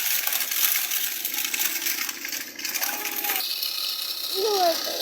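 Fast, continuous metallic rattling and clicking, with a few faint voices behind it.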